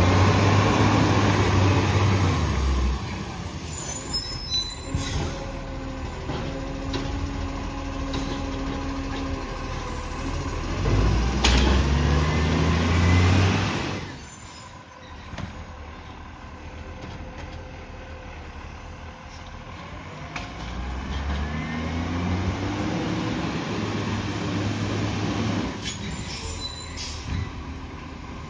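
Garbage truck engine revving up twice and dropping back, with a steady whine between the run-ups and short air hisses near the start and end, typical of air brakes.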